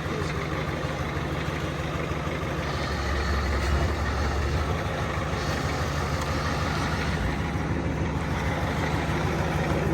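IDI V8 diesel truck engine running at low speed as the truck creeps forward, its hum swelling briefly about three seconds in. The engine shows low compression on most cylinders and no oil pressure, and its owner fears it may be blown.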